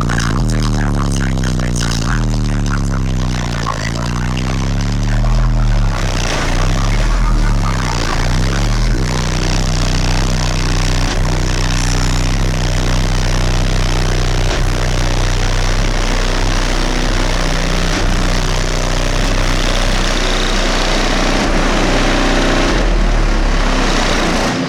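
Two HDC4 12-inch subwoofers in a ported box playing very loud deep bass. For the first several seconds the bass notes slide down and back up in pitch, then they settle into steady low notes, with a heavy noisy rush over the top.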